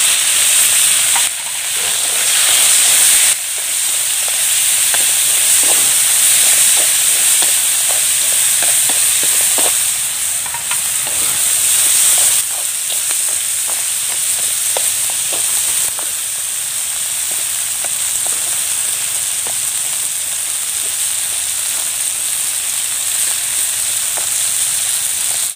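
Stone crabs and green onions sizzling in a wok as they are stir-fried with chopsticks, a dense, steady hiss with scattered light clicks.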